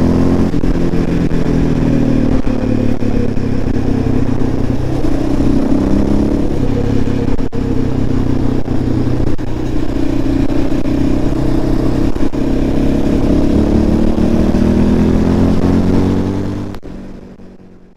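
Yamaha Raptor quad's engine running, its pitch sagging and climbing again a few times as the revs change, fading out near the end.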